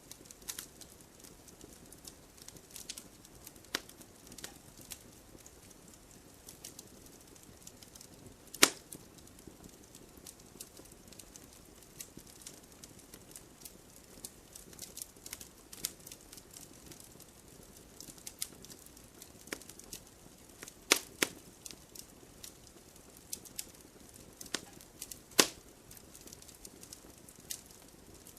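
Wood fire burning in a fireplace: a steady faint hiss with irregular crackles and sharp pops of the logs, three of them much louder than the rest.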